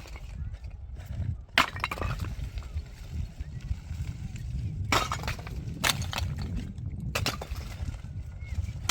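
About four sharp, clattering knocks of hard materials striking each other, with smaller clinks between, over a steady low rumble.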